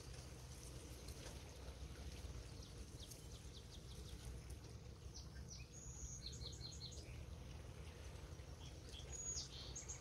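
Faint bird calls: quick runs of short high chirps about six seconds in and again near the end, over a steady low background hum.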